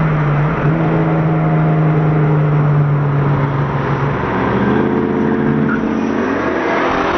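Twin-turbocharged Chevrolet Camaro SS V8 at full throttle, its engine note holding steady for about four seconds and then climbing in pitch as it pulls hard.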